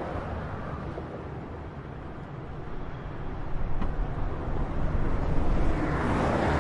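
Highway traffic noise: a steady wash of tyre and engine noise that eases to a lull in the middle, then swells again as more vehicles pass near the end.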